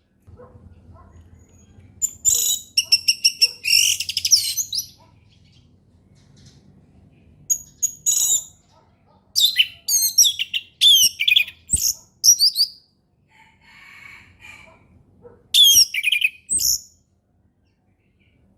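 Orange-headed thrush singing its loud, open 'ngeplong' song: four runs of rapid, varied whistled phrases with short pauses between, over a faint low hum.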